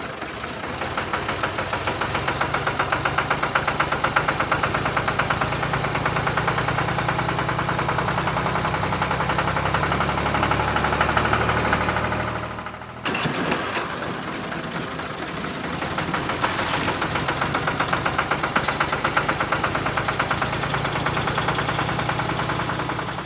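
A vehicle engine running with a steady rapid chug. The sound cuts off abruptly about 13 seconds in and then picks up again.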